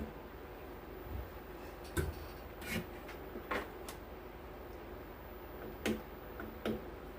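Tools and small parts being handled at an electronics repair bench: a handful of short, irregular clicks and knocks over a steady low hum.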